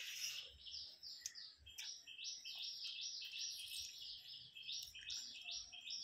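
A bird chirping over and over, a quick run of short sweeping notes at about four a second.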